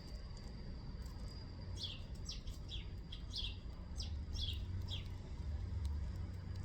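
A small bird calling: a run of short, high chirps that each slide downward, about two or three a second, starting a couple of seconds in and stopping about five seconds in. A thin steady high tone fades out about a second in, and a low rumble runs underneath.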